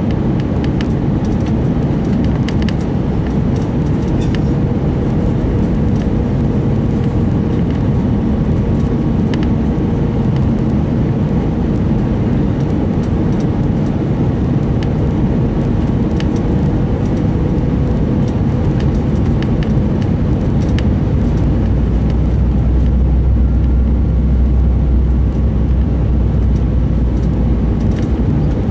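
Airbus A319 cabin noise on descent: a steady roar of engines and airflow with a steady hum through it. About three quarters of the way through, a deeper rumble swells and holds for several seconds.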